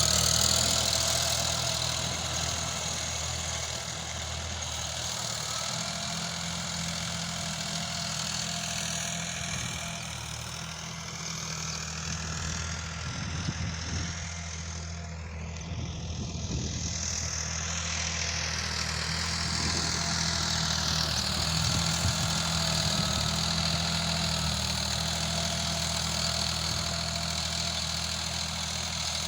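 Sonalika RX 50 tractor's diesel engine running steadily. Fainter, higher tones slide down and back up in pitch through the middle.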